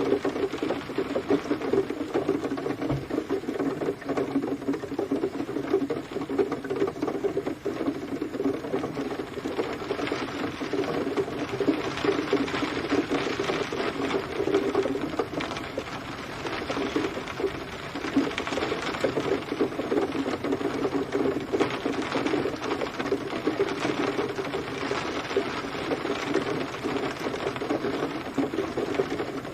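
Steady rain, a dense, even patter of many drops with no letup.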